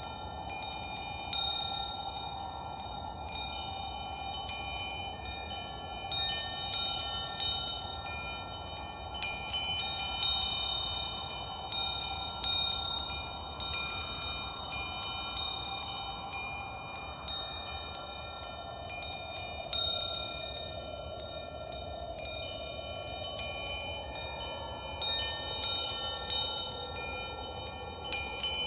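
Wind chimes ringing, struck at irregular moments, with clear overlapping tones that hang and fade. Under them is a soft whooshing hiss that slowly rises and falls in pitch.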